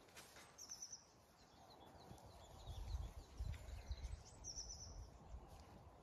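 Quiet outdoor ambience: a small bird gives short, high trilled chirps twice, about half a second in and again near five seconds, over an irregular low rumble.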